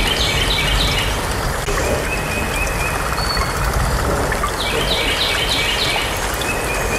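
Birds chirping over a steady background hiss. There are two quick runs of four or five short falling chirps, one at the start and one about four and a half seconds in.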